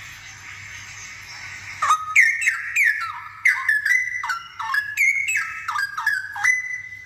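Straw-headed bulbul (cucak rowo) singing a loud phrase of rich, fluty notes, most sliding downward, that begins about two seconds in and ends on a briefly held note near the end.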